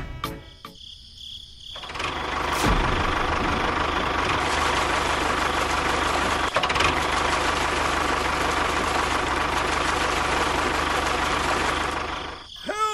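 A small motor running steadily, starting about two seconds in and stopping near the end.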